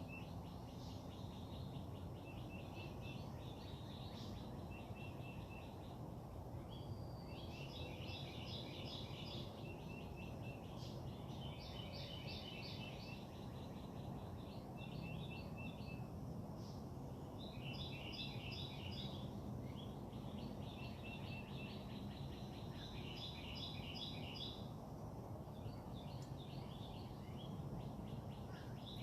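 Songbirds singing in short phrases of quick, repeated high notes, with brief pauses between phrases, over a steady low background rumble.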